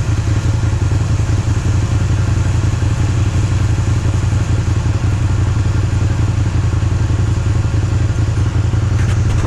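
John Deere 7720 combine running steadily while harvesting wheat: a constant low diesel drone under a dense mechanical rattle of the threshing and feeding machinery.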